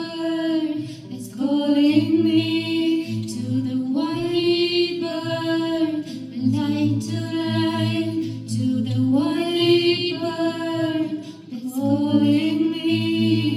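Female voices singing a cappella: long, sustained sung phrases with no clear words, each swelling and falling away, about five of them in turn.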